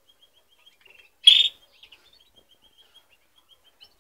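High animal chirps: a faint, even train of short chirps at one pitch, about five a second, with one louder, sharper squeal about a second and a half in.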